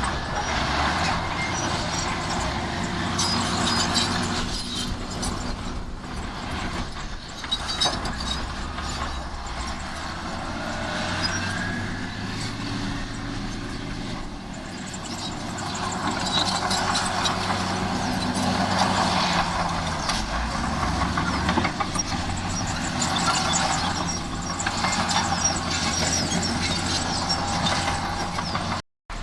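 Heavy diesel earthmoving machinery running under load, the engine note rising and falling, with scattered metallic clanks and squeals over it. The sound cuts out briefly near the end.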